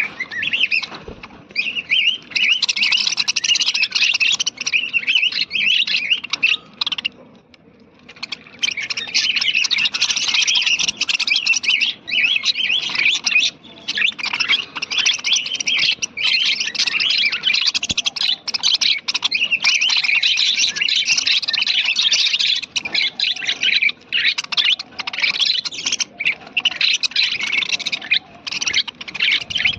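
A colony of budgerigars chirping and chattering, with many overlapping calls and a brief lull about seven seconds in.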